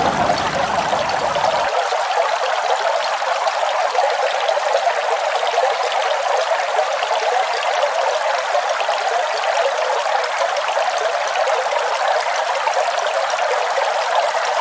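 Steady rushing water of a waterfall. About two seconds in, its low rumble drops out, leaving a thinner, higher hiss.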